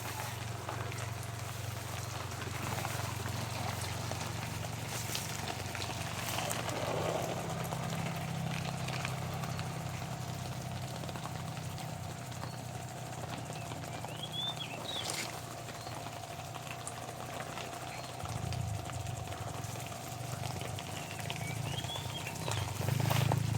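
Outdoor garden ambience: a steady low rumble with a faint steady tone above it, and a few short chirps about two-thirds of the way in and again near the end.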